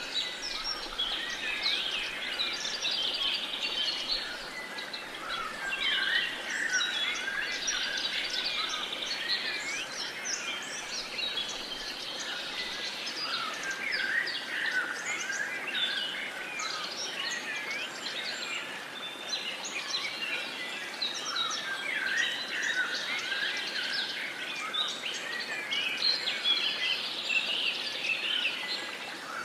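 Many songbirds singing and chirping at once, a dense, steady dawn-chorus-like mix of short chirps and whistles over a soft background hiss.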